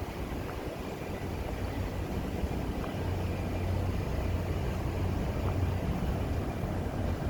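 Steady deck ambience aboard the cruise ship Costa Favolosa: a constant low hum from the ship's machinery under an even rushing, rumbling noise.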